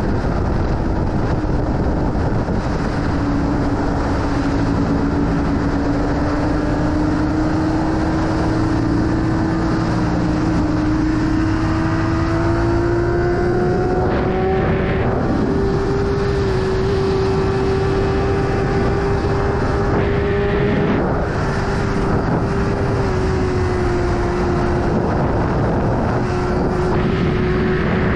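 BMW S1000RR inline-four engine running at sustained speed, its pitch slowly climbing as the bike accelerates gently, with heavy wind rush over it.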